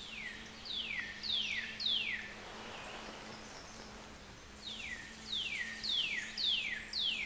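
A songbird singing two phrases of clear, sharply downslurred whistles, four notes and then, after a pause of about two seconds, five more, each note falling steeply in pitch.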